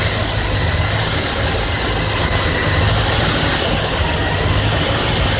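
Vehicle engine idling steadily with a loose accessory drive belt squeaking over it; the belt is slack.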